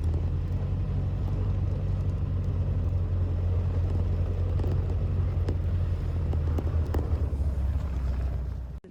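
Vehicle driving: a steady low engine and road rumble that cuts off suddenly near the end.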